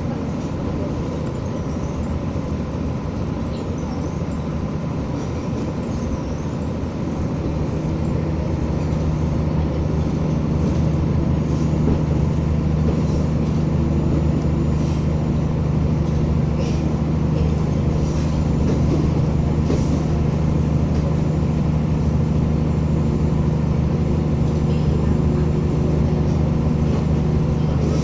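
Materfer diesel railcar running along the line, its engine humming steadily and growing louder a third of the way in as the train picks up speed, with faint clicks from the track.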